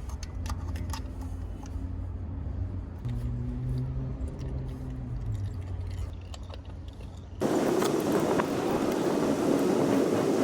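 Honda Gold Wing's flat-six engine running steadily, its pitch rising briefly and settling back, with small clicks over it. About seven seconds in, it cuts abruptly to a louder, even rush of wind and road noise.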